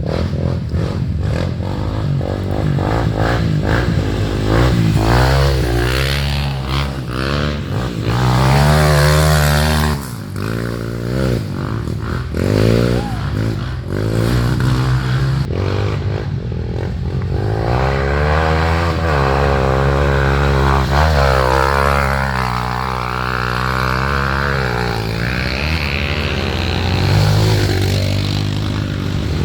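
Several off-road trail motorcycles riding by, their engines revving up and down over and over, with a second engine overlapping at times.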